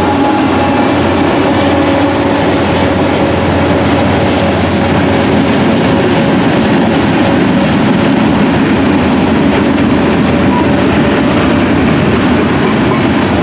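Norfolk Southern diesel freight train passing close by. The locomotives' engines drone past over the first few seconds and fade out, leaving a steady rumble and clatter of wheels on rail as tank cars and boxcars roll by.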